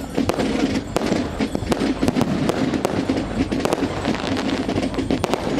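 Fireworks going off, many sharp cracks and pops in quick succession over a continuous background din.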